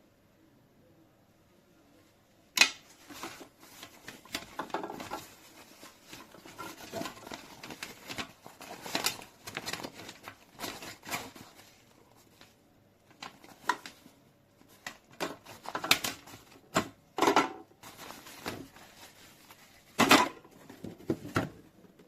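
Irregular clicks, taps and rustles of hard objects being handled, with a sharp knock near the start and another near the end.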